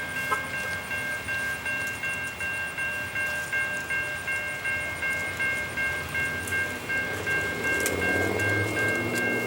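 Railroad grade-crossing warning bell ringing steadily, about two strokes a second. A diesel locomotive's engine rumble comes in near the end as a train approaches.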